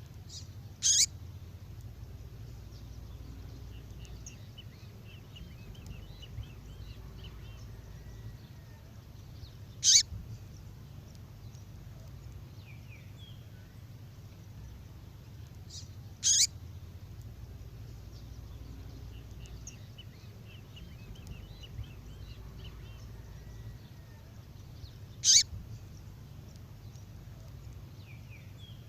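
Female songbird call, used to stir up male birds: four short, sharp calls spaced several seconds apart, with faint twittering between them over a steady low hum.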